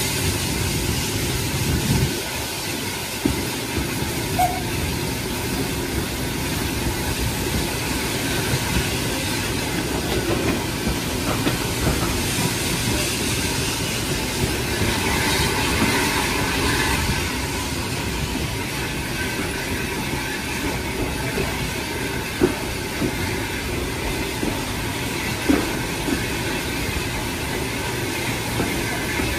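Passenger carriage running on the rails, heard from its open window: a steady rumble of wheels on track, with two sharp clacks near the end.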